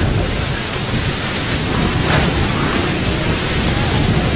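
Strong gusty wind rushing and buffeting the microphone, a loud steady roar of noise.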